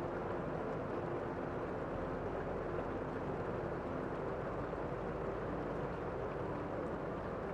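Steady rain heard from inside a room, a muffled, even wash with little high hiss.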